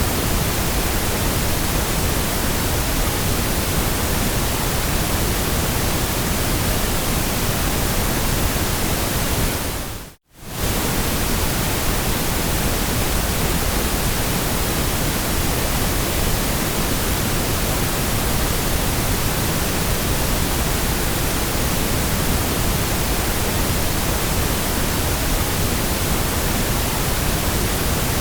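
Steady, even hiss of generated white noise. About ten seconds in it fades down to near silence for a moment and comes straight back up.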